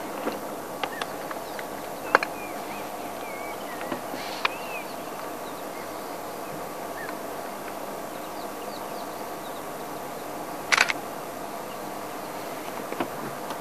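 Wild birds chirping and whistling in short, scattered calls over a steady background hum. There are a few sharp clicks, and a louder brief rushing burst comes about eleven seconds in.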